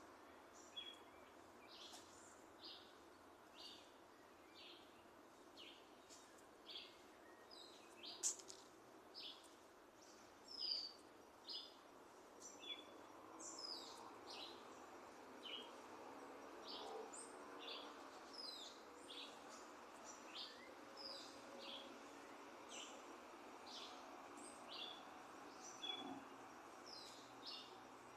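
Small birds chirping: many short, high chirps repeated a few times a second, faint, over a steady low background noise.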